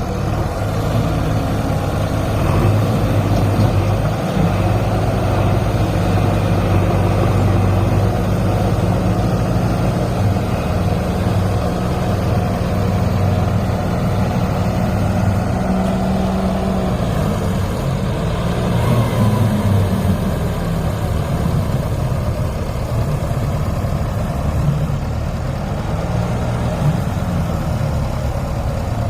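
Diesel engine of a JCB 3DX backhoe loader running continuously. Its note is steady at first, then shifts and wavers in pitch past the middle.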